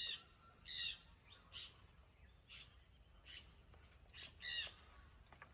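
A bird calling repeatedly in short harsh squawks, roughly one every half second to second. A few calls are louder, at the start, just under a second in and about four and a half seconds in, and the others are fainter.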